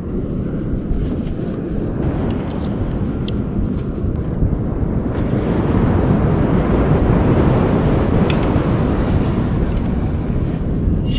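Wind buffeting the microphone outdoors, a steady low rumble, with a few faint clicks.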